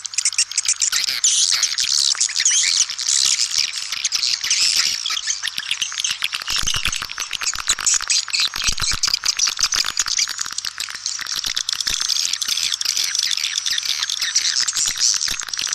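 Swiftlets twittering in a dense, unbroken chorus of rapid high chirps overlapping one another: a swiftlet lure-call recording of the kind played to draw birds into a nesting house. A faint steady low hum lies under it.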